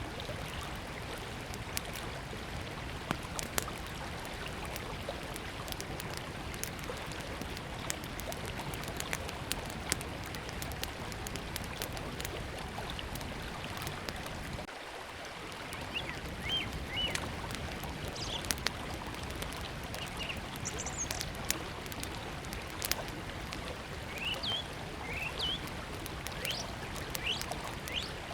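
River flowing steadily, with a small wood fire crackling in sharp, scattered pops over it. Birds chirp from about halfway through, in short calls and quick upward glides.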